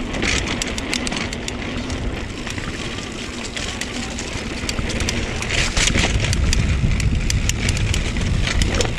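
Mountain bike riding over a rough dirt trail: wind rumbling on the microphone with rattles and ticks from the bike over the bumps, louder from about halfway through.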